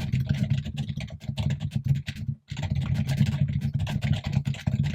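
Fast typing on a computer keyboard: a dense, unbroken run of keystrokes that stops for a moment about two and a half seconds in, then carries on.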